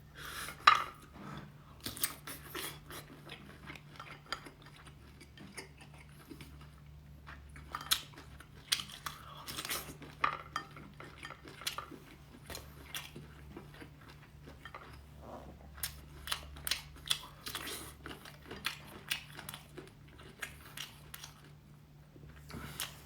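Someone eating seafood at a table: a scatter of sharp cracks and crunches with chewing, and the clink of dishes and utensils.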